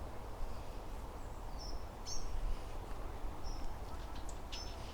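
A few short, high bird chirps at intervals, over a steady low outdoor rumble.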